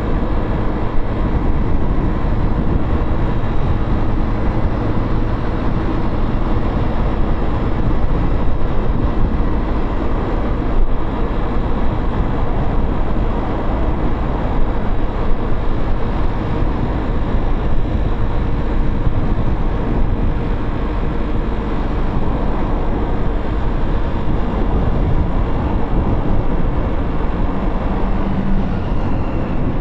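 Motorcycle riding at a steady pace, its engine running under a heavy rush of wind on the microphone, with road and traffic noise.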